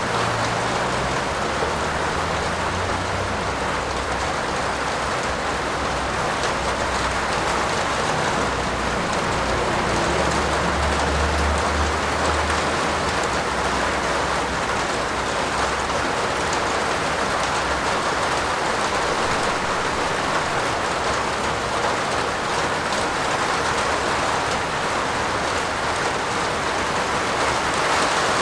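Steady heavy rain falling on a roof, a dense even downpour. A low rumble sits underneath for roughly the first half.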